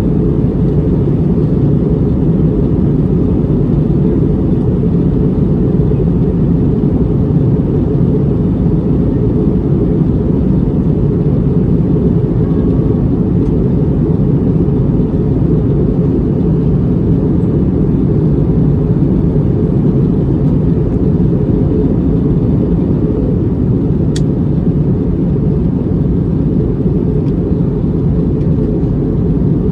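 Airbus A320neo cabin noise heard from a passenger seat during the climb: a steady low roar of engines and airflow, unchanging throughout. A single faint tick sounds about 24 seconds in.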